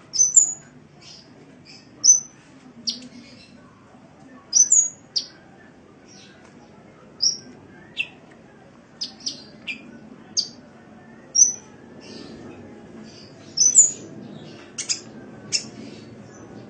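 Kolibri (sunbird) calling: short, high, sharp chirps, about fifteen of them at irregular intervals, several ending in a quick upward flick.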